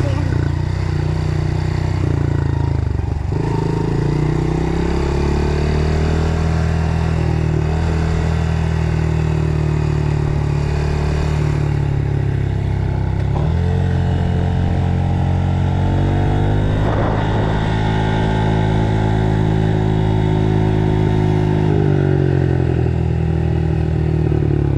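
Dirt bike engine running under way, its pitch rising and falling with throttle and gear changes, with wind noise and rattling from the ride.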